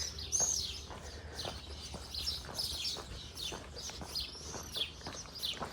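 Small birds chirping, many short curved chirps repeated one after another.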